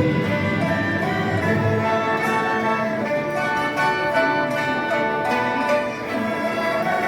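Chinese traditional orchestra playing a slow piece, with held bowed-string melody lines over the ensemble; the low parts thin out about two seconds in.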